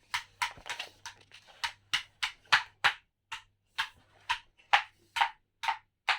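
Wood fire in a fireplace crackling, a run of sharp pops about three a second at uneven intervals.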